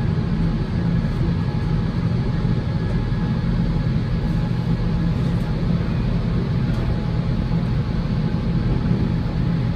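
Steady low rumble of a COASTER commuter train in motion, heard from inside a passenger car.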